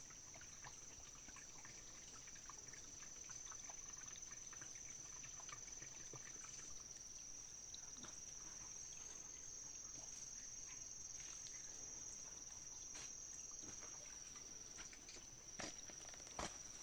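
Insects trilling steadily in one high-pitched unbroken tone, faint, with scattered small clicks and rustles and a few louder knocks near the end.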